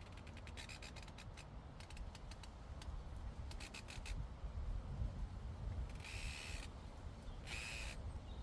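Llama cropping and chewing grass close to the microphone: clusters of crisp tearing clicks, then two short rasping tears near the end, over a low wind rumble.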